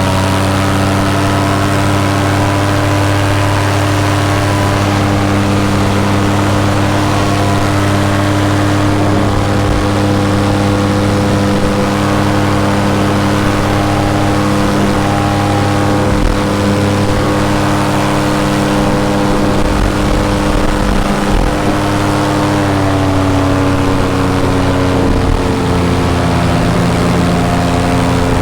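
Paramotor engine and propeller running steadily at cruise power in flight. The engine note eases down slightly about three-quarters of the way through.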